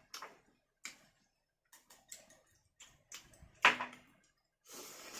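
Scattered light clicks and taps, with one louder knock about three and a half seconds in, then a soft hiss near the end.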